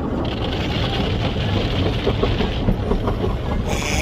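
Automatic car wash heard from inside the car's cabin: a steady low rumble of the wash machinery with a hiss of water spraying on the car, and a brighter burst of spray near the end.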